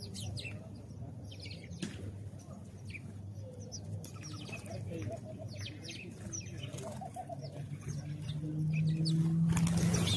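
House sparrows chirping: many short, falling chirps, irregular and overlapping, over a low steady hum that grows louder near the end.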